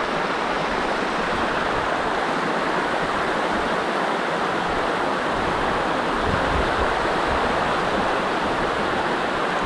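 River water rushing over rocks in a steady, unbroken wash.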